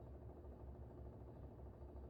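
Air conditioner running: a faint, steady low hum.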